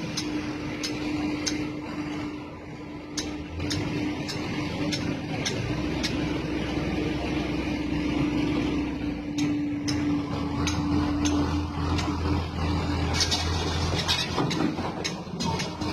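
Crane's diesel engine running under load, a steady hum with a low rumble that grows heavier a few seconds in, with sharp ticking clicks about twice a second over it.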